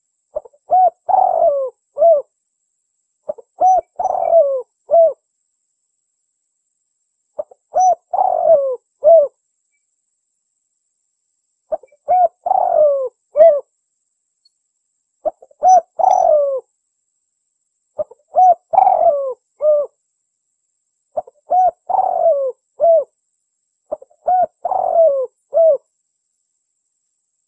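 Spotted dove (tekukur) cooing: eight phrases, each a quick run of several short coos, repeated every three to four seconds.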